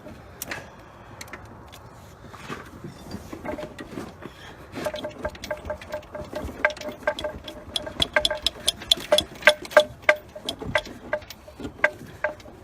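Metal parts clinking and tapping against each other while an engine is worked into place: rapid, irregular metallic clicks with a short ring, starting about a third of the way in and going on to the end.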